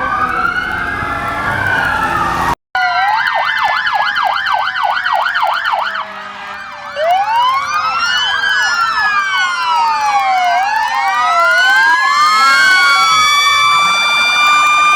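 Fire truck sirens sounding while responding: several wailing sirens overlap, break off briefly a few seconds in, then a fast yelp of about four cycles a second, then slower wails rising and falling over one another, ending in long high tones that climb and hold steady.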